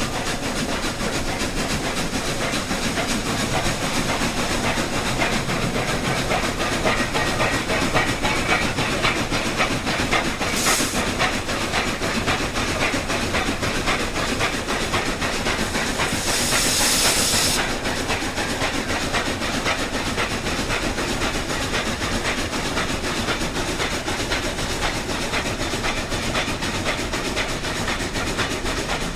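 LGB garden-scale model steam train running, with a fast, even chuffing and clicking rhythm throughout. A short hiss comes about ten seconds in, and a longer, louder hiss lasting over a second comes around seventeen seconds in.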